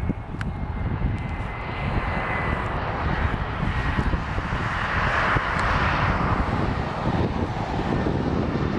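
Embraer 175 regional jet's turbofan engines passing on a landing approach: a thin, slightly falling whine over a jet rush that swells to its loudest about midway, then eases.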